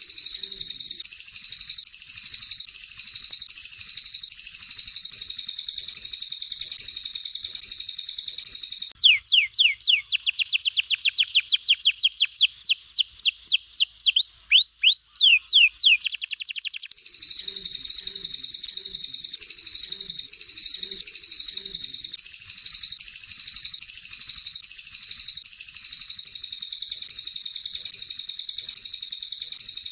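Recorded songbird song of a domestic canary and a cililin. A dense, continuous high warbling song is broken, from about nine to seventeen seconds in, by a quick run of repeated sweeping whistled notes at about five a second, and then the warbling resumes.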